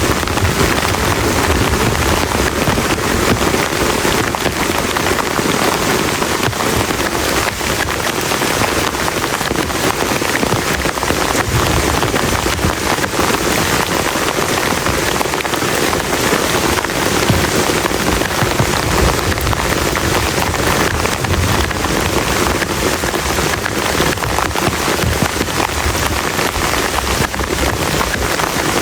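Heavy rain pouring steadily onto a plastic tarp: a dense, even hiss of countless drops with no break.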